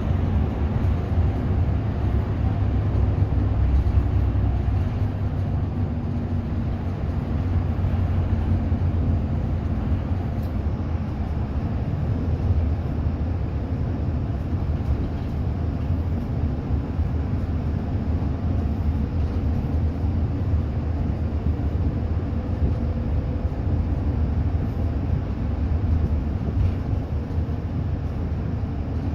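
Steady low rumble of a bus on the move, engine and road noise heard from inside the passenger cabin.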